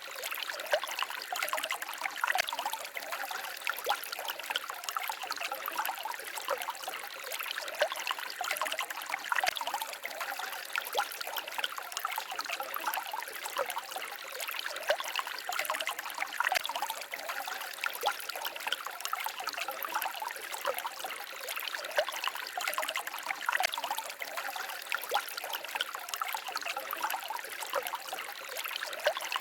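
Shallow stream babbling and trickling steadily: a dense, even patter of small splashes with very little deep rumble.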